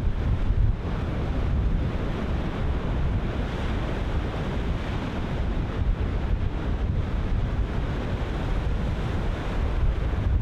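Ocean surf breaking continuously, with strong wind buffeting the microphone as a steady low rumble.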